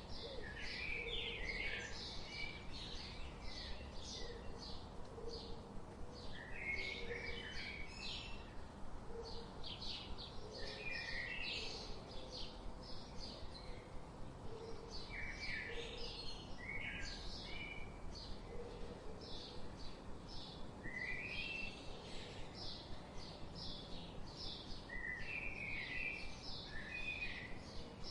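Small birds chirping continuously in rapid, short high notes, with a lower, fuller phrase breaking in every four to five seconds. Faint short low notes sit underneath, over a steady background hiss.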